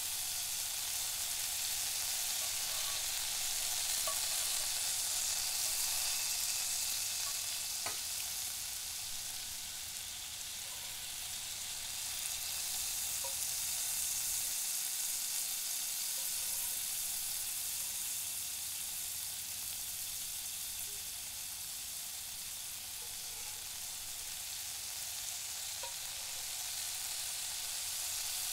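Onion and diced potatoes frying in olive oil in a pan: a steady sizzle with small scattered pops, and a wooden spatula stirring them now and then.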